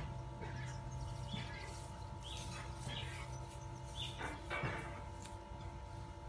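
Small birds chirping in short calls about once a second over a steady hum.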